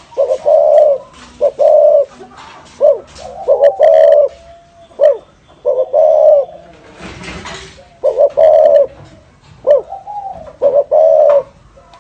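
Spotted dove (cu gáy) cooing over and over in the rolling 'thổ rền' style: short low coo notes grouped into repeated phrases, loud and clear. A brief burst of noise sounds about seven seconds in.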